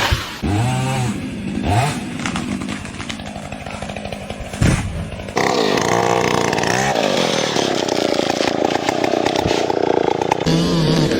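Chainsaw engine revving up and down, then running steadily at high speed. There is a sharp knock a little before five seconds in and an abrupt jump in loudness just after it.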